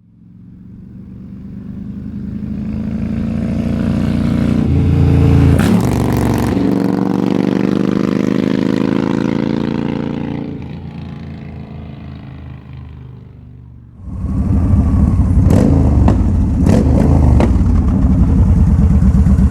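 Yamaha V Star 1300 V-twin through aftermarket Hard Krome exhausts: the engine sound swells up, holds with a slowly rising pitch, then dies away. About 14 seconds in it comes back suddenly loud and close, running steadily with a deep rumble and a few sharp clicks.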